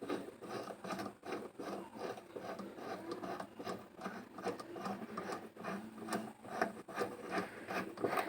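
Centre bolt of an LG top-load washing machine's spinning pulsator being tightened by hand: a steady run of small irregular clicks and scraping of metal and plastic. The bolt must be tight, or it will work loose when the pulsator spins.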